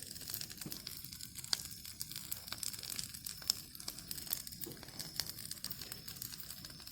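Bonfire burning strongly, with many irregular crackles and pops.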